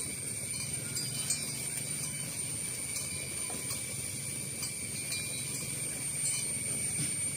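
A herd of cattle walking along a road, their hooves making scattered faint clicks, over a steady high-pitched drone.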